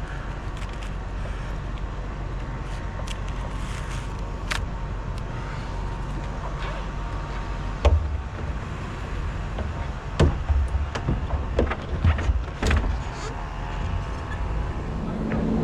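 Bucket truck's engine running steadily with a low rumble. A string of sharp knocks and clicks comes about halfway through and continues for a few seconds after.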